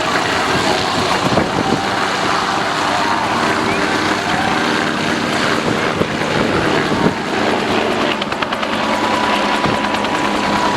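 Agusta A109 helicopter flying a display pass: steady turbine and rotor noise, with a rapid rotor chop coming through more clearly near the end.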